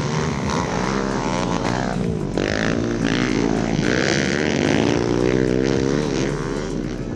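Several pit bike engines revving up and down together, their overlapping pitches rising and falling as the bikes accelerate and shift.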